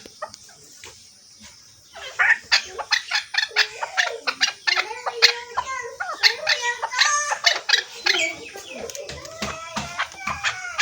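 Chukar partridge calling: a long run of short, rapidly repeated clucking notes that starts about two seconds in.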